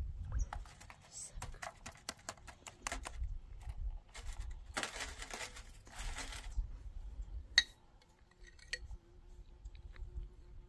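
Scattered clicks and knocks of small objects being handled, with a stretch of rustling about five seconds in and one sharp click near the end.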